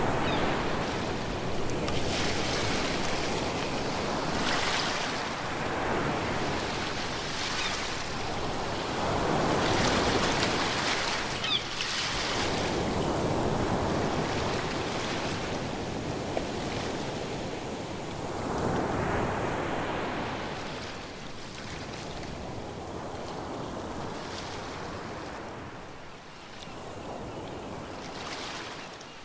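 Ocean waves breaking and washing up the shore, swelling and ebbing every few seconds, growing fainter near the end.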